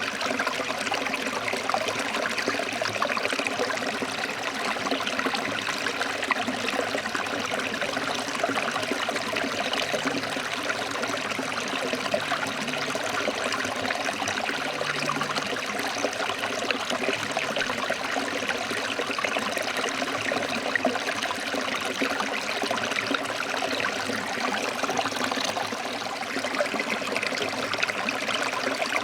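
Forest stream flowing over rocks, a steady splashing rush of water.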